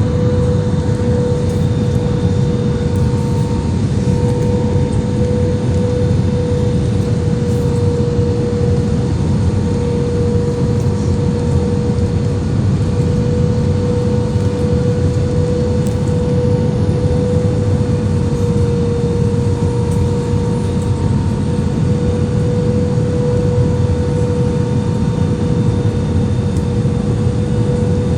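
Airliner cabin noise in flight: a steady rush of engine and air noise with a constant tone over it, unchanging throughout.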